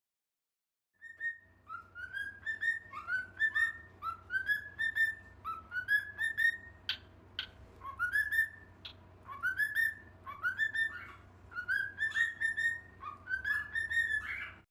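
Short rising whistled notes, repeated about twice a second, with two sharp clicks about six seconds in.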